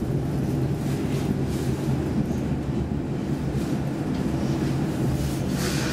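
Saltsjöbanan C10/C11 electric train running, heard from inside the passenger car: a steady rumble with a low hum, and a brief hiss near the end.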